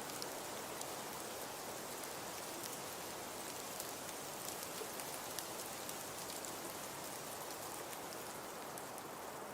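Fireplace fire crackling: a steady hiss with many small, irregular pops.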